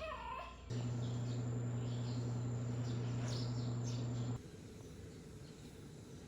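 A steady low mechanical hum that starts abruptly just under a second in and cuts off abruptly about four seconds in, with faint bird chirps over it.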